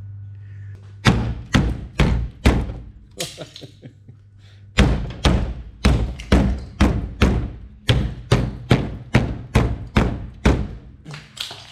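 A run of heavy, evenly spaced thumps, about two to three a second, with a short break after the first four.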